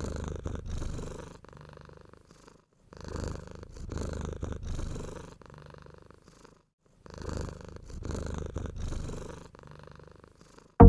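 Domestic cat purring close by. The purr swells and fades in three long spells of a couple of seconds each, with short pauses between.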